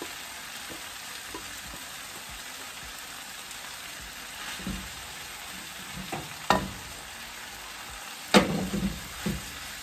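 Minced meat and onions frying in a pan, a steady sizzle, with stirring and a few sharp knocks against the pan, the loudest about eight seconds in.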